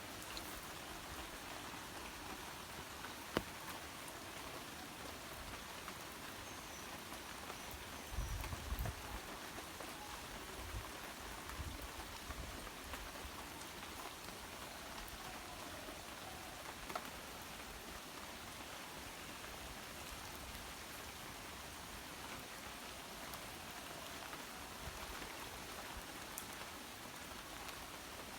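Steady rain falling, an even hiss of drops, with a single sharp tap about three seconds in and a few low thumps around eight to nine seconds in.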